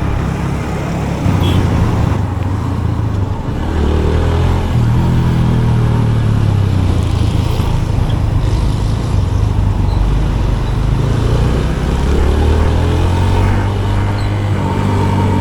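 Motorcycle engine running while riding in city traffic, its pitch rising and falling as the throttle and speed change, over steady road and wind noise.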